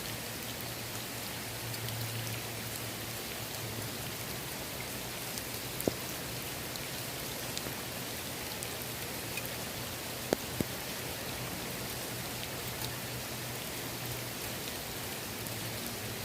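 Steady rain falling on a swimming pool's water surface, an even patter with a few sharper single drops about six and ten seconds in, over a faint steady low hum.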